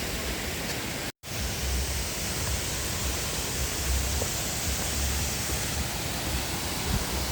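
Steady rush of falling water from a waterfall, broken by an abrupt silent gap about a second in, with low rumbles underneath after the gap.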